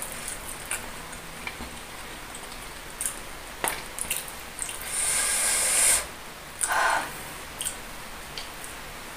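Close-miked eating sounds: wet, squishy chewing of a mouthful of spicy chicken feet, with a few sharp clicks of wooden chopsticks. About five seconds in comes a loud hiss lasting about a second, then a short louder noise soon after.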